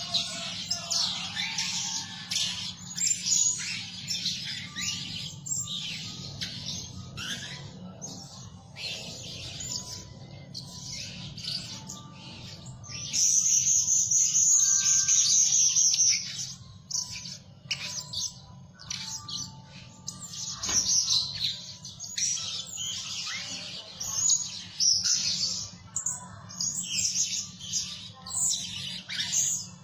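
Blue-crowned hanging parrots calling: rapid runs of sharp, high-pitched chirps, with one loud, unbroken high trill lasting about three seconds near the middle.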